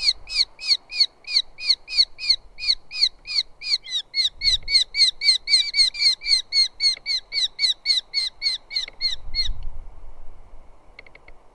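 Eurasian hobby giving a rapid series of sharp repeated calls, about four a second, that stops about nine and a half seconds in.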